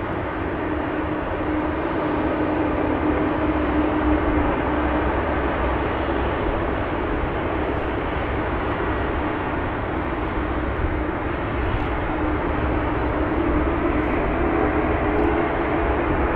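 Jet airliner engines running, a steady rushing noise with a low steady hum through it.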